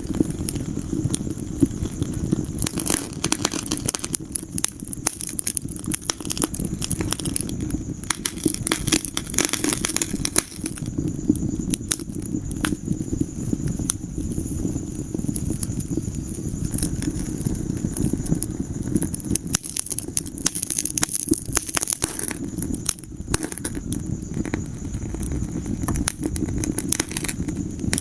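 Wood fire burning in a fireplace: a steady low rumble of flames under dense, irregular crackling and popping.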